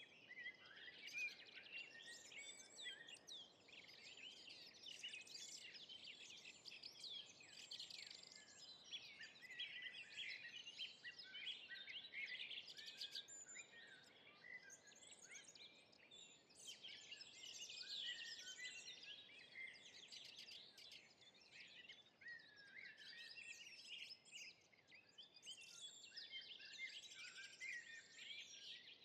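Faint forest ambience: many small birds chirping and singing at once, their quick overlapping calls continuing throughout over a soft background hiss.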